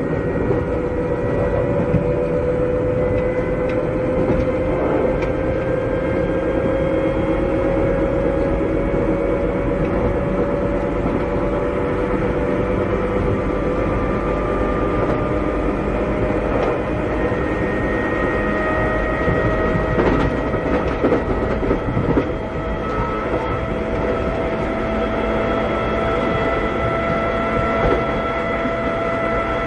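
Running sound inside a Keikyu old 600-series (second-generation) electric car with Toyo Denki electrical equipment. Its traction motors and gears give a steady whine that slowly rises in pitch as the train gathers speed, over a constant running rumble with occasional clacks from the rail joints.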